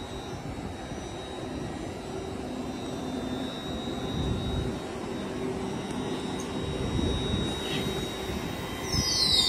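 Electric passenger train rolling past the platform: a steady rumble with a thin high whine. About nine seconds in there is a brief high squeal that falls in pitch.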